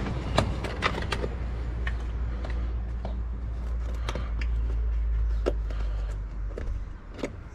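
Engine oil being poured into the filler of a 4D56 turbo diesel during an oil change, with small clicks and knocks from handling the bottle and cap over a steady low rumble that fades near the end.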